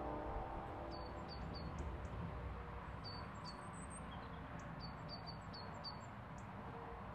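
Small birds chirping outdoors in short high calls, a few at a time with a quick run of them about five seconds in, over steady background noise. At the very start a sustained chord from a Victorian pump organ fades away.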